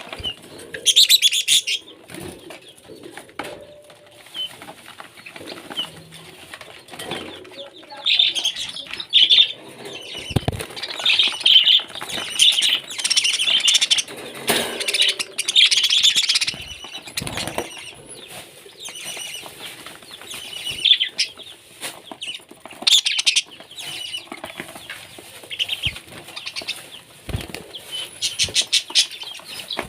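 A parrot flapping its wings and rustling in irregular bursts of crackly sound, some several seconds long.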